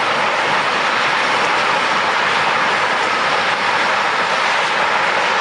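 Jet engines of a taxiing Airbus A320 airliner: a loud, steady rushing hiss.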